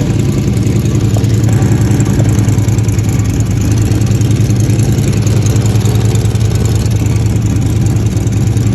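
An old truck's carbureted engine idling steadily and evenly.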